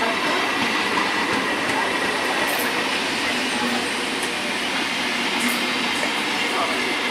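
Electric multiple unit (EMU) local train running past slowly as it picks up speed: a steady rolling noise of its coaches' wheels on the rails, with a faint steady high tone over it.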